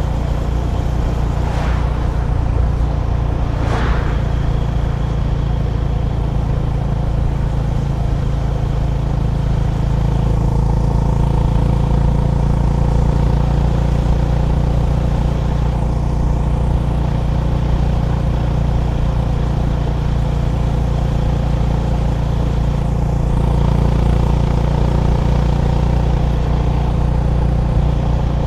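Honda GB350's air-cooled single-cylinder engine running steadily under way at cruising speed, swelling a little in loudness about ten seconds in and again near the end. Two brief sharp noises come at about two and four seconds in.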